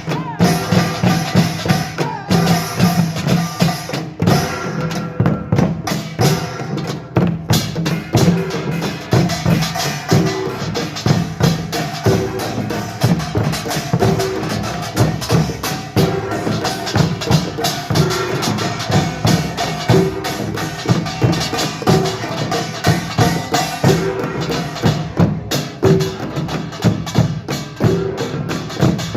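Pungmul percussion ensemble playing a fast, dense rhythm without a break: the metallic clanging of kkwaenggwari small gongs over the beats of janggu hourglass drums and buk barrel drums.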